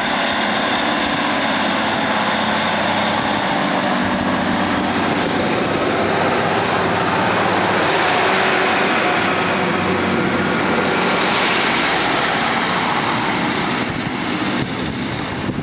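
Class 155 diesel multiple unit passing close by, its diesel engines running and its wheels running on the rails. The sound builds to its loudest around the middle and falls away near the end as the train moves off.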